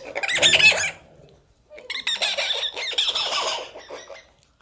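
An animal's harsh, squawking calls: a short loud one at the start, then a longer rapid run of calls from about two seconds in.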